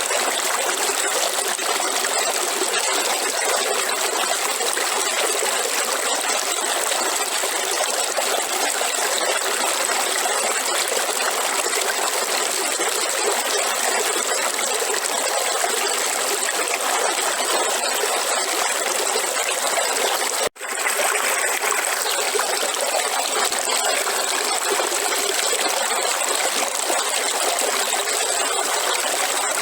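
River water flowing steadily, a constant rushing and trickling. It cuts out abruptly for an instant about two-thirds of the way through, then resumes.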